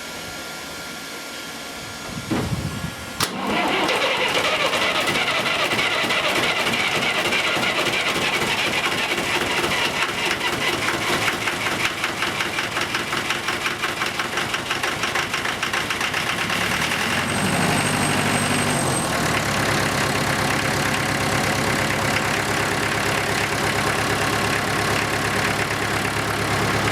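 1953 International B-275 diesel tractor engine cold-starting after glow-plug preheating: the starter turns briefly about two seconds in and the engine catches almost at once, running fast with a rapid even beat. About seventeen seconds in the revs drop and it settles into a steady idle.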